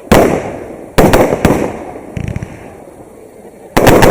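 Fireworks bursting overhead: a sharp bang right at the start, another about a second in with two quick follow-up bangs, and a third near the end, each trailing off in a rumbling echo. A short run of small crackles about two seconds in.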